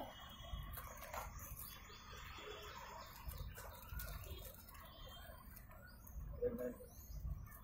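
Small birds chirping faintly, with an uneven low rumble of wind on the microphone. A short pitched call stands out about six and a half seconds in.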